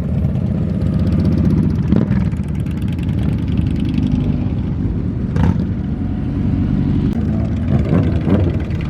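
Motorcycle engines running steadily at low revs, with small rises and falls in pitch, and a few short sharper sounds about two, five and eight seconds in.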